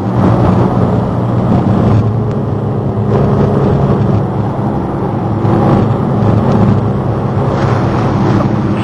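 Patrol launch's engine running steadily underway, a loud constant low hum with a rushing noise over it.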